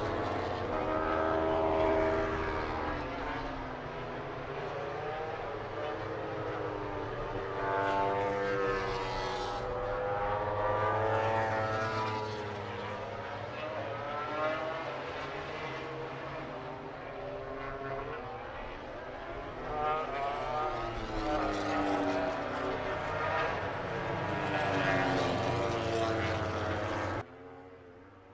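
MotoGP racing motorcycle engines at speed, their pitch rising and falling over and over as the bikes rev through the gears and pass by. The sound cuts off abruptly near the end.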